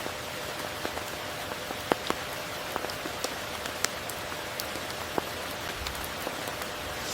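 Steady tropical rain falling, an even hiss with individual drops ticking close by, a few of them louder, around two and four seconds in and again past five.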